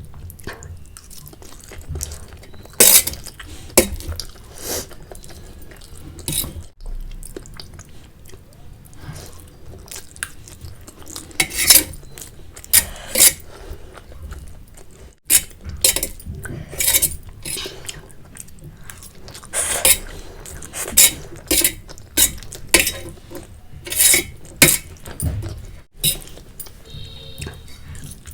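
Cutlery clinking and scraping against a plate of Maggi noodles as they are eaten: many short, uneven clinks.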